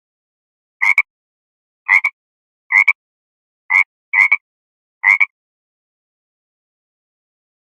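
An animal's short, sharp calls repeated six times at uneven intervals of about a second, each call clipped and alike, then stopping about five seconds in.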